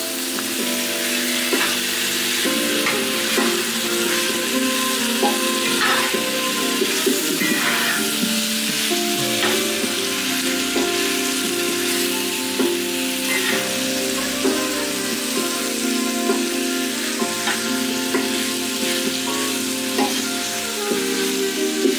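Diced chicken and onions sizzling in a cast-iron skillet while a metal spatula stirs and scrapes across the pan, with a few sharper scrapes now and then. Background music with held notes plays underneath.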